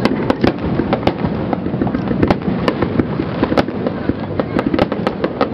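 Aerial fireworks shells bursting in a rapid barrage: sharp cracks and bangs come several times a second over a continuous low rumble of booms.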